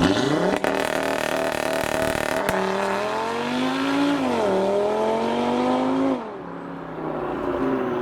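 A car launching and accelerating hard away: the engine revs jump up at the start and climb, drop at a gear change about four and a half seconds in, climb again, then fall back sharply about six seconds in as the throttle is lifted.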